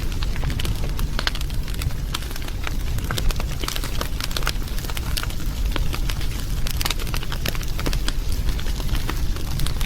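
Wood fire crackling, with many irregular sharp pops over a steady low rumble.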